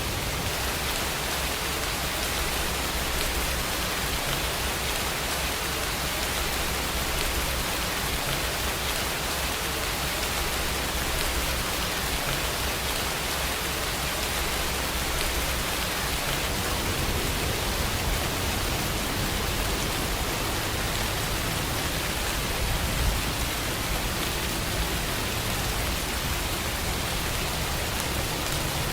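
Steady heavy rain, an even hiss without a break. A low rumble underneath grows stronger a little past halfway.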